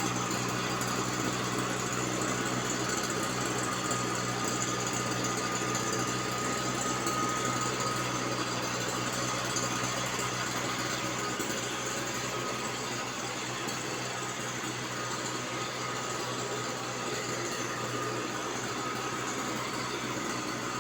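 Small motor of a weed-killer sprayer running steadily at constant speed, a high light engine hum with no change in pitch.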